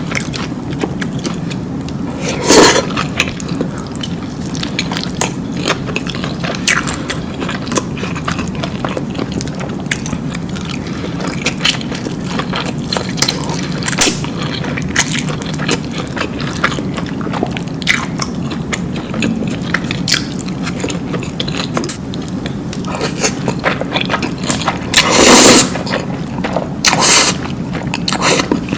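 Close-miked mukbang eating sounds: a person biting and chewing food with a steady run of small wet clicks and crunches. Louder bites come about two and a half seconds in, around the middle, and twice near the end.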